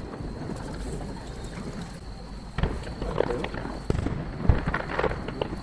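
Distant aerial fireworks shells bursting: several sharp booms, the first about two and a half seconds in and the loudest near the end, over a rumbling background.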